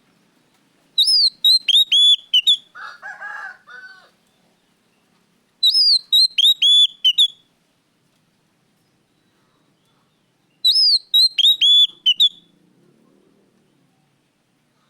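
Oriental magpie-robin (kacer) singing the same loud, whistled phrase three times, about five seconds apart, each a quick run of clear notes that hook downward in pitch. A lower, rougher call follows the first phrase.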